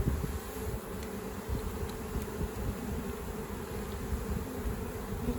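Swarm of honeybees buzzing with a steady hum, over a low rumble.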